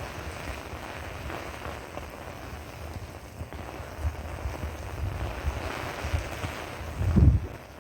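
Steady rain falling, with wind buffeting the microphone in low rumbling gusts, the strongest near the end.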